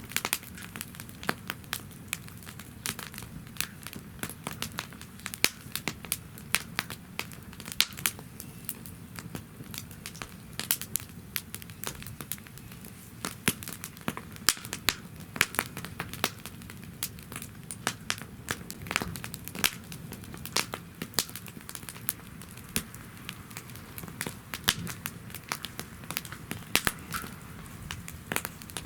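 Wood fire burning in a fire-pit stand, crackling continually with many sharp pops over a low, steady rush.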